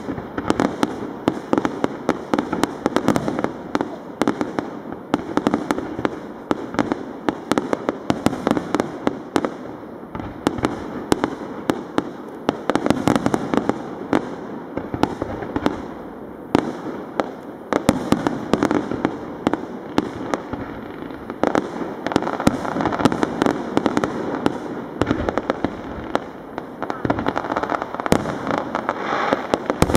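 Fireworks display in full swing: a dense, continuous run of shell bursts and crackling, many bangs a second with no pause.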